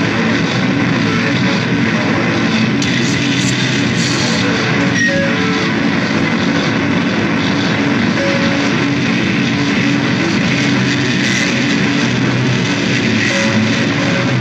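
Loud, dense distorted electric guitar music: a steady wall of sound with no clear beat.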